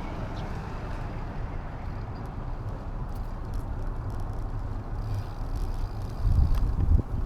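Wind buffeting an action camera's microphone while riding, a steady low rumble that swells in stronger gusts near the end.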